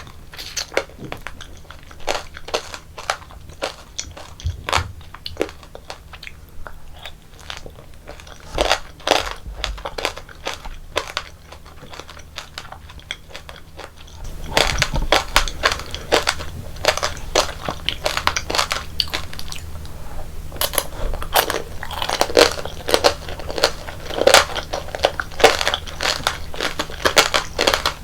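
Close-miked crunching and chewing of tanghulu, the hard sugar shell on candied fruit cracking between the teeth in quick sharp crackles. The crunching grows denser and louder about halfway through.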